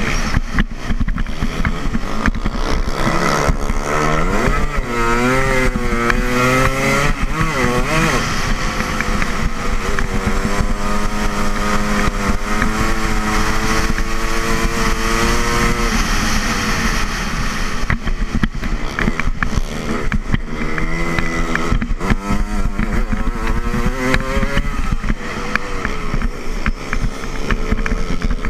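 Dirt bike engine racing at full throttle on a dirt oval track, its pitch rising and falling as the rider gets on and off the gas through the laps, steadier for several seconds in the middle. A constant low rush of wind runs over the onboard microphone.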